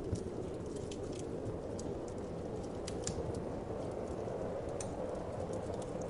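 Wood fire crackling, with scattered sharp pops and snaps over a steady low whoosh of wind.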